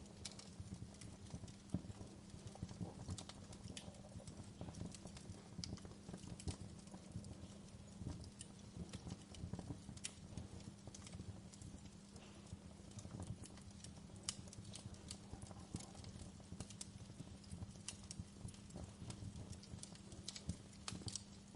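Wood fire crackling in a fireplace: a steady low rumble of burning logs with irregular sharp pops and snaps.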